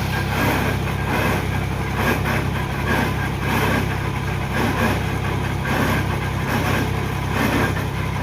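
The diesel engine of piling machinery running steadily, with a noisy swell that comes back roughly once a second.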